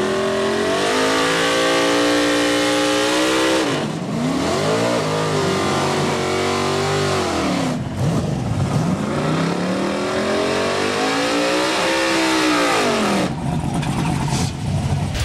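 A race car's engine revved hard during a burnout in tyre smoke. Its pitch climbs and holds high, then drops, three times over, falling away for good about two seconds before the end.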